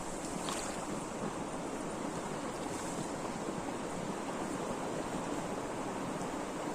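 Steady rushing of river water running over rocks.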